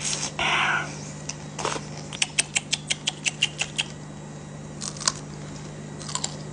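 A short slurp of noodles, then crisp crunching as raw green chilies are bitten and chewed, a quick run of about ten sharp crunches over a second and a half, with a few more later.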